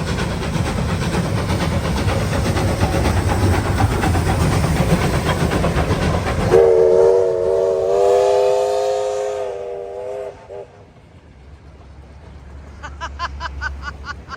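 Steam locomotive passing close by, a loud dense noise with a low rumble, then its steam whistle sounds a chord of several notes for about four seconds, dipping slightly in pitch as it stops. The train noise then falls away.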